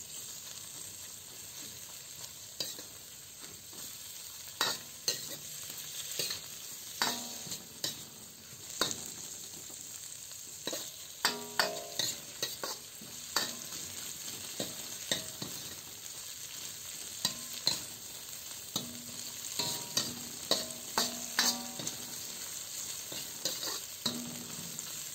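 Peeled shrimp, sliced onion and garlic sizzling in hot oil in a wok, with a steady hiss. A metal spatula scrapes and knocks against the wok again and again as the shrimp are stirred and turned.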